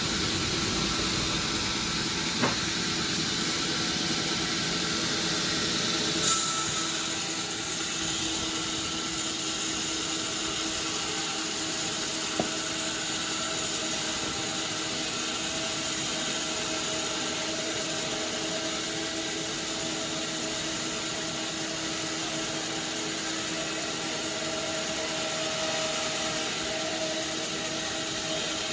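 Sawmill machinery running steadily with a constant hum and a high whine. A sharp click comes about two and a half seconds in, and a brief louder surge about six seconds in, after which the high whine is stronger.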